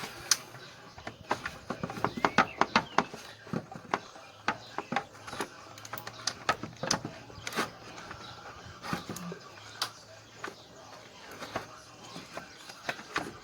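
Irregular clicks, taps and knocks of hand tools and parts being handled while working on a car's engine bay, several a second at times and sparser at others.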